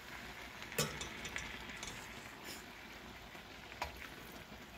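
Stir-fried vegetables sizzling steadily in a hot pan, with a light knock of a metal utensil about a second in and another near the end.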